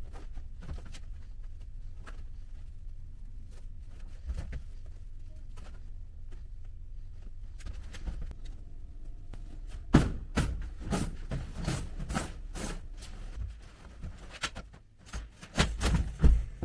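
Irregular knocks and thumps over a steady low rumble, growing louder and denser from about ten seconds in, with the loudest thumps near the end.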